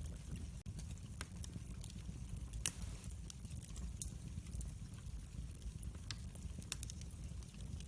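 Wood fire crackling, with irregular sharp pops and one louder pop about two and a half seconds in, over a low steady rumble.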